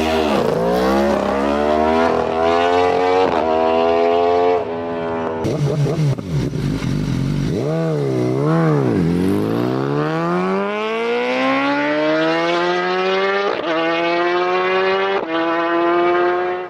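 A vehicle engine accelerating hard through the gears: its pitch climbs steadily, then drops sharply at each shift, several times. About halfway through it is revved up and down twice in quick succession.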